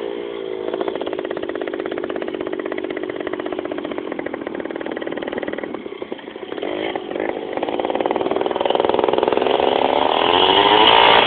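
Small two-stroke motorbike engine running at steady revs. It eases off briefly about six seconds in, then revs up again, rising in pitch and getting louder toward the end.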